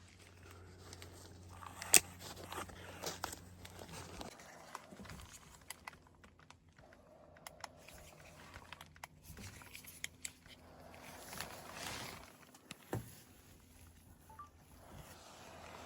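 Quiet handling noise: scattered light clicks and rustling, with one sharp click about two seconds in, over a faint low hum during the first few seconds.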